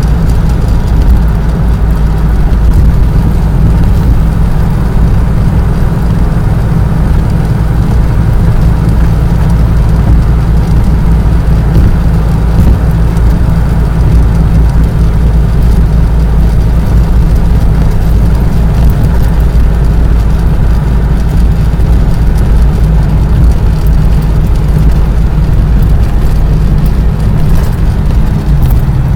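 Loud, steady low rumble of a motor vehicle on the move, unchanging throughout.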